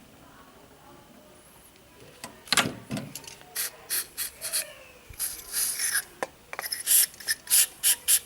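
Hand ratchet with a Torx bit working a screw on a starter motor, giving a series of short rasping metal strokes that start about two and a half seconds in and come closer together and louder towards the end.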